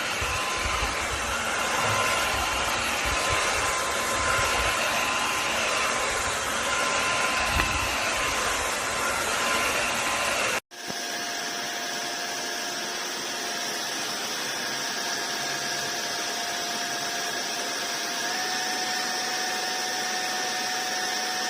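Cordless wet-dry floor washer running: a steady vacuum-motor rush with a whine over it. About ten seconds in the sound cuts off and comes back as a different steady whine, which steps up a little in pitch near the end.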